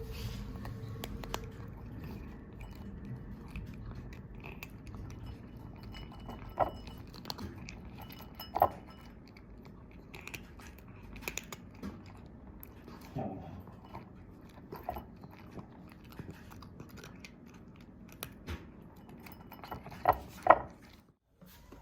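Cat crunching and chewing kibble, with many small clicks and a few sharper knocks; the loudest knocks come near the end.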